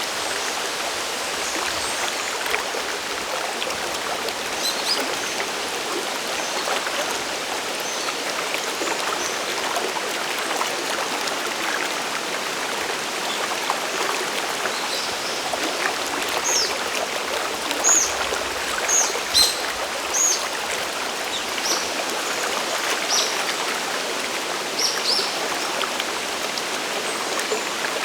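Steady rush of a mountain stream and waterfall. Short, high bird chirps come in over it, more often in the second half.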